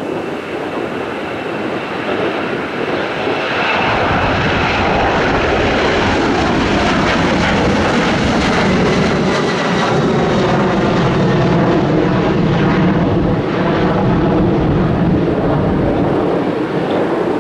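A fixed-wing airplane's engines passing close by: the sound builds about four seconds in, stays loud with a slowly bending pitch, and eases near the end.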